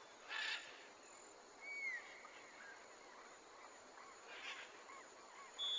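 Faint, sparse bird calls: a short call about a third of a second in, a curved chirp just before two seconds, another short call around four and a half seconds, and a brief high note near the end.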